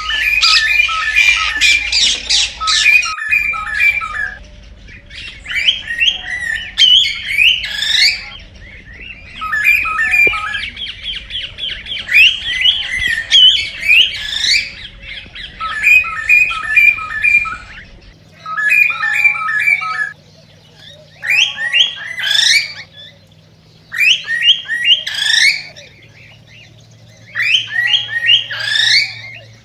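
Cockatiel singing: phrase after phrase of rapid chirps and warbling whistles, each burst lasting a second or two with short pauses between. It is the excited song a male cockatiel gives when stirred to breed.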